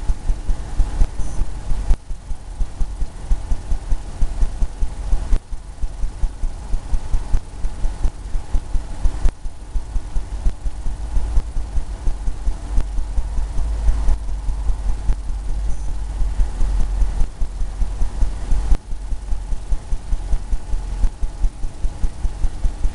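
Rhythmic low thuds, several a second, in runs with short pauses: a paintbrush dabbing and scrubbing oil paint onto a canvas on an easel.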